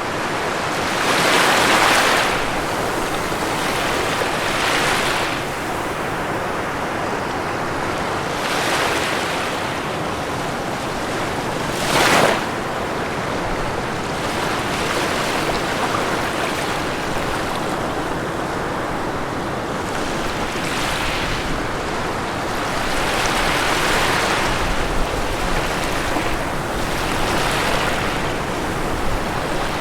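Ocean waves breaking on a shore: a steady wash of surf in which waves swell and break every few seconds, the sharpest break about twelve seconds in.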